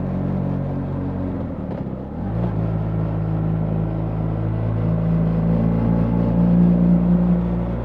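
2025 BMW R 1300 GS's boxer-twin engine running under way. About two seconds in its note briefly breaks and dips, as at a gear change, then it settles and pulls steadily, growing a little louder towards the end.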